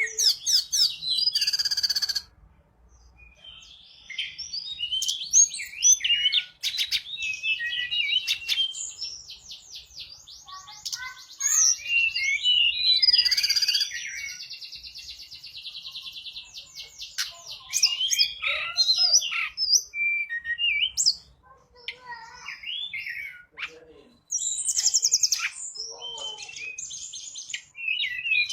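Tledekan gunung, a small Indonesian songbird, singing a long, varied, high-pitched song of quick chirps, whistled notes and fast rattling trills, with brief pauses.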